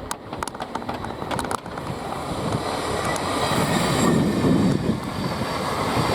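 Electric multiple-unit passenger train approaching and running through the station, its rail and wheel noise growing steadily louder. A series of sharp clicks sounds in the first second and a half.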